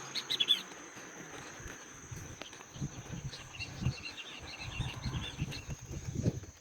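Faint outdoor ambience: repeated small chirps over a steady thin high-pitched tone, with soft irregular low rumbles underneath.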